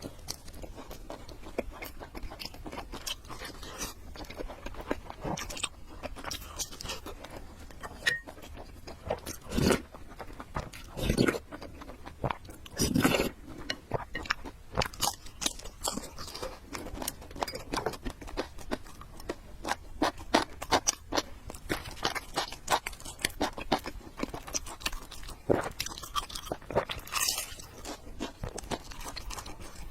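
A person chewing and crunching food up close, with many small mouth clicks and a few louder bursts about ten, eleven and thirteen seconds in and again near the end.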